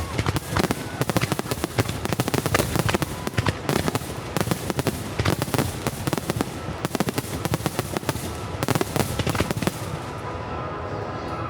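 Starmine fireworks barrage: many shells bursting in quick succession, a dense run of bangs and crackling that thins out near the end.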